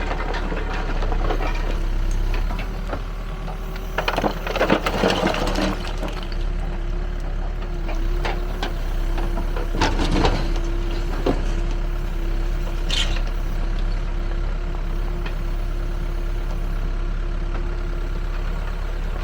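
Backhoe loader's diesel engine running steadily, with a held tone over it, while a Gyro Star roller screening bucket works. There are bursts of clattering rubble and soil about four to six seconds in and again around ten seconds in.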